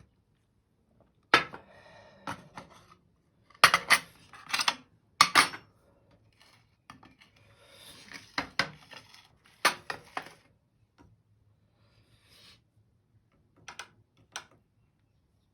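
Dishes and utensils clattering and clinking, in a dozen or so irregular knocks with short ringing tails, with a little scraping in between.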